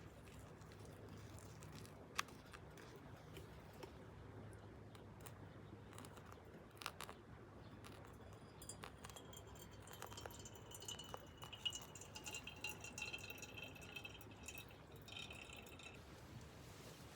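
Faint, scattered clicks and clinks of small hard objects being handled, with a thin high tone that falls slightly in the second half.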